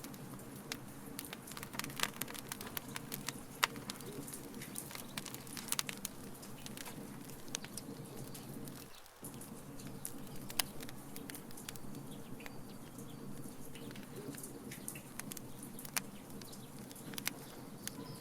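Wood fire crackling in a fire pit, with irregular sharp pops and snaps over a steady low rumble. The rumble drops out briefly about nine seconds in.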